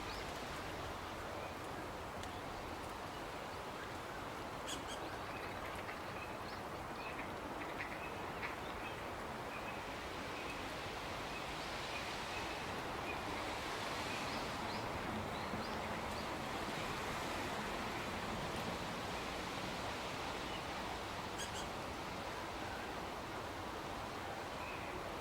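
Steady outdoor ambient noise with faint, scattered short bird calls.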